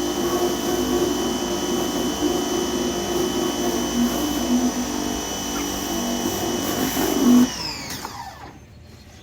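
DeWalt 2100 PSI electric pressure washer running and spraying, a steady motor-and-pump drone with a high whine. About seven and a half seconds in, the motor winds down with a falling whine and stops.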